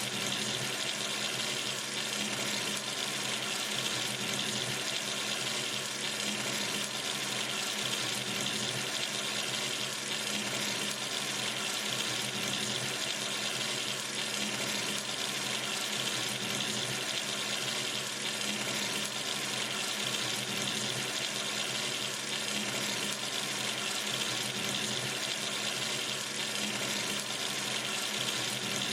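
Tap running steadily into a sink: an even, unbroken hiss of falling water.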